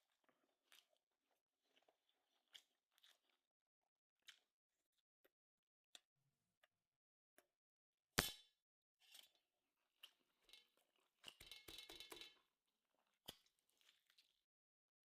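A person eating quietly: soft chewing and crunching with scattered small clicks, one sharp knock about eight seconds in, and a quick run of crunching clicks a few seconds later.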